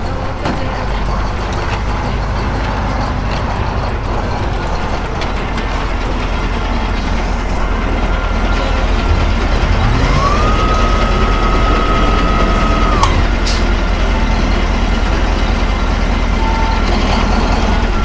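Garbage truck sound: an engine running steadily with a low rumble. About ten seconds in, a whine rises to a steady pitch, holds for about three seconds and then drops away, as if the bin lift is working.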